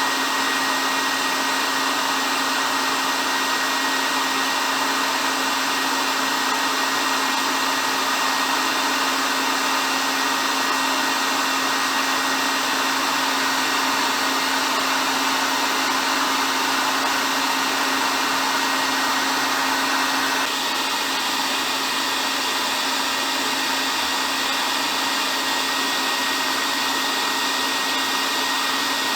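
Hair dryer running steadily: a continuous airy whir with a steady low hum and a faint high tone. The tone shifts slightly about two-thirds of the way through.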